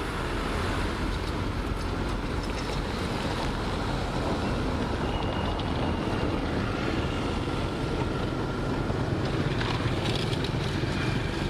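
Heavy earthmoving machine's diesel engine running steadily, with a few metallic clicks about ten seconds in.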